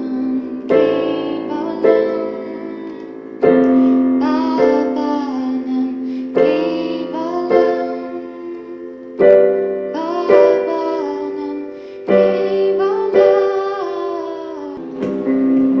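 Slow, gentle piano music: chords struck about every one to two seconds and left to ring.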